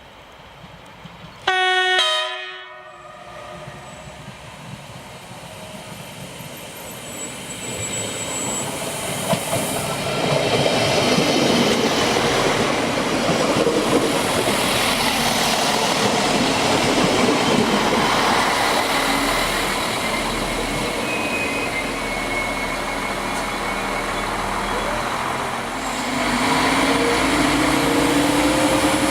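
A train horn sounds one short blast about a second and a half in, then a train approaches and runs by close at hand, its rumble and wheel noise on the rails building over several seconds and staying loud.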